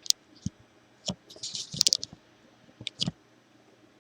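A few light clicks and clatters of small metal parts and tools being handled on a workbench, with a brief scuffing rustle in the middle and two last clicks about three seconds in.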